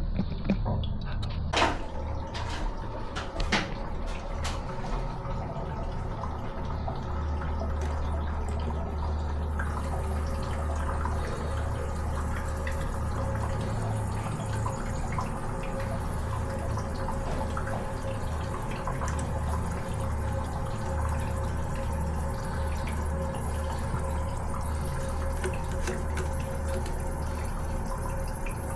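Water running from a tap with dripping, over a steady low hum. There are a few sharp knocks in the first few seconds.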